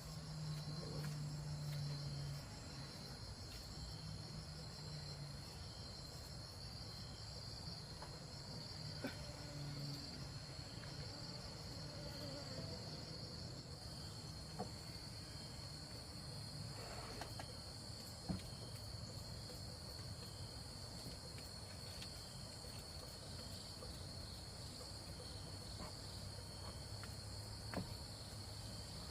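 Steady high-pitched chirring of insects, with a few faint knocks now and then.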